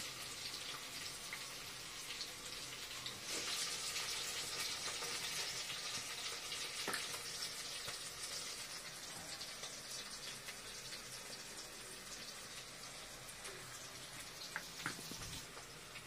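Chopped vegetables frying in oil in an aluminium kadai on a gas stove, a steady soft sizzle. A few light clicks from utensils are heard.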